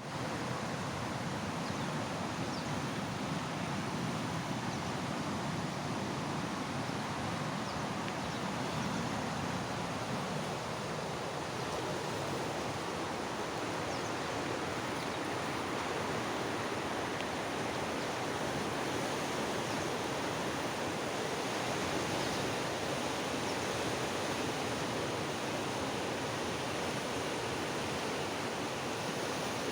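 Steady rushing noise that stays even throughout.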